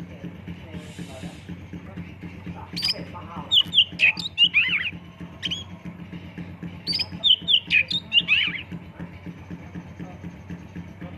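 Oriental magpie-robin (kacer) singing: two bursts of sharp, sweeping whistled notes, one about three seconds in and one about seven seconds in, with a few single notes between, over a steady low hum.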